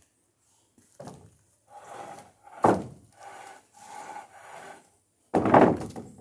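Wooden boards being shifted in a lumber pile: knocks and planks scraping and sliding against each other. There is a sharp clack midway and the loudest heavy thump near the end.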